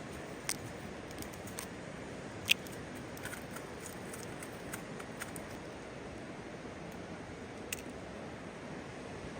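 Wood campfire crackling: a steady low rush with scattered sharp pops, the loudest about two and a half seconds in.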